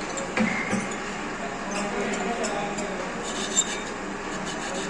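Steady machine running with a low hum, with sharp metallic clinks about half a second in, just under a second in, and again about three and a half seconds in.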